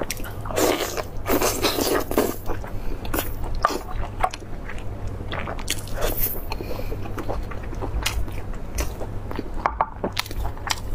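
Close-miked mouth sounds of a person biting and chewing braised beef rib meat. The chewing is dense from about half a second to two and a half seconds in, then goes on as scattered short clicks and smacks.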